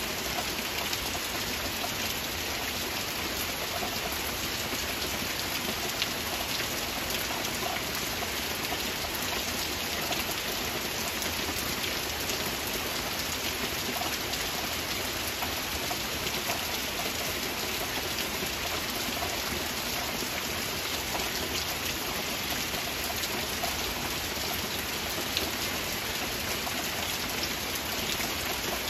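Steady rain falling, a dense even hiss with many close drops pattering through it, and a few single drops landing louder.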